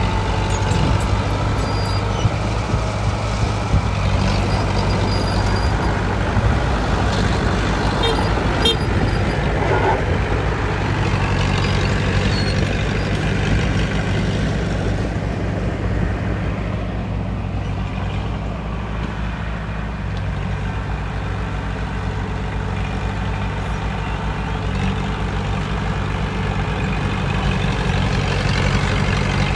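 Diesel engines of heavy earthmoving machinery running steadily with a low drone, with a few sharp metallic clinks about eight seconds in; the engines ease off a little midway and pick up again near the end.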